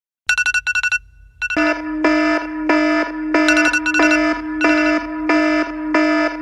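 Electronic beeping tone: a few short beeps, then from about one and a half seconds in a steady buzzy tone that pulses evenly, about three pulses every two seconds.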